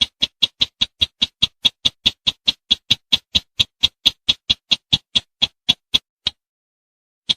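Crake call (the 'sintar semak' of Indonesian bird lures): a fast series of short, sharp notes, about five a second, that breaks off about six seconds in, followed by a single note near the end.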